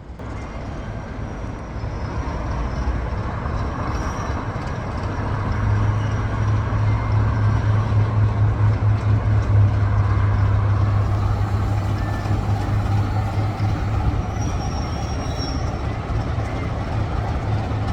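Heritage diesel locomotive engine running as the loco stands at the platform: a steady low throb that grows louder over the first several seconds, then settles.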